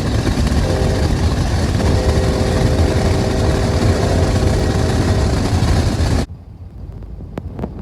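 Loud rumble of a CSX freight train's diesel locomotive running close by, with a few steady tones above the rumble. It cuts off abruptly about six seconds in, leaving quieter background noise and a few clicks.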